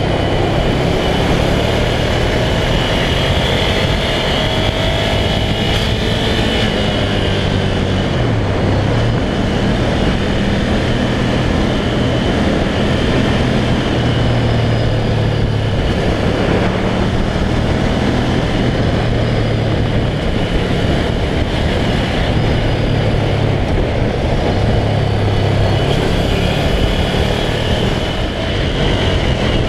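Ducati Scrambler's air-cooled L-twin engine pulling the motorcycle along at road speed, its note rising and falling with the throttle, dipping and climbing again about eight seconds in. Wind rushes over the handlebar-mounted camera's microphone.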